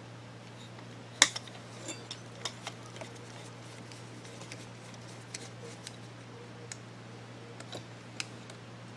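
Irregular light clicks and taps of small metal motor parts being handled on a workbench during disassembly. The loudest click comes about a second in, with a flurry of taps just after, all over a steady low electrical hum.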